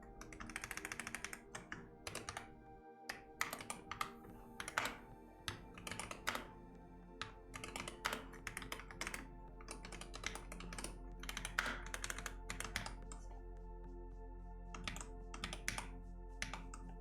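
Computer keyboard typing in quick bursts of keystrokes over soft ambient background music with steady held tones; the typing stops briefly near the end, then a few more keystrokes follow.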